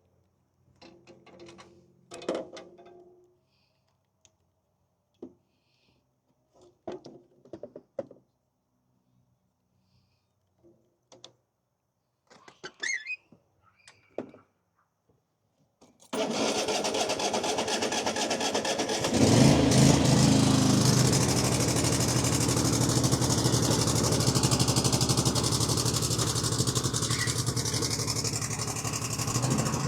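A few scattered knocks and clicks, then about halfway through the Craftsman T240 riding mower's engine starts abruptly and runs loudly, growing louder a few seconds later and holding steady.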